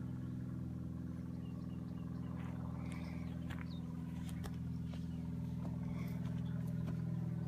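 Vehicle engine idling steadily, an even low hum, with a few faint bird chirps.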